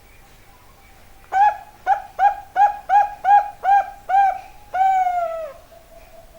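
Bangkok-line perkutut (zebra dove) cooing: a quick run of eight short, clear notes, each rising and falling, followed by one longer note that slides down in pitch.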